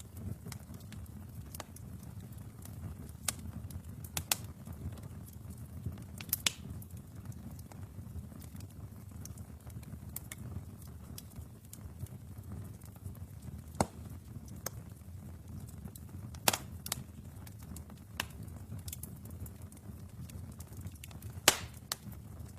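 Wood fire burning in a fireplace: a steady low rumble of flames with scattered sharp crackles and pops, the loudest pop near the end.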